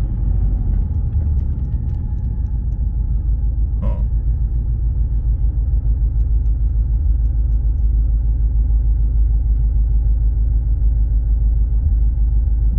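Twin-turbo LS V8 in a BMW E36 running steadily with a deep, evenly pulsing rumble.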